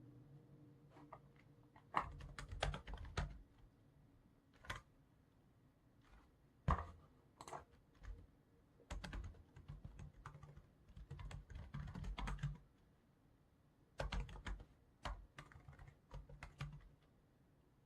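Typing on a computer keyboard in short runs of keystrokes, separated by pauses of a second or two.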